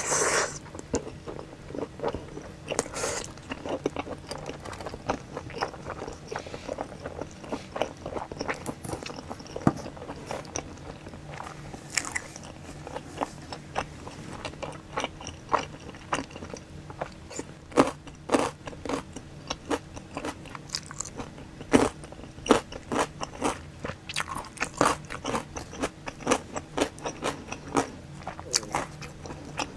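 A person biting and chewing a slice of pizza topped with spicy sauced boneless fried chicken: many short crunches of the crust and wet chewing clicks, with a loud bite right at the start. A faint steady low hum lies underneath.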